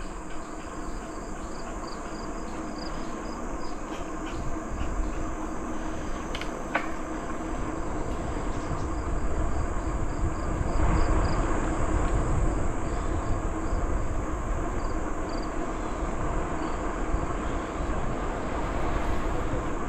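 Bicycle rolling along a trail: a steady rumble of tyres and riding noise with wind on the microphone, getting louder about eleven seconds in. Insects trill steadily behind it.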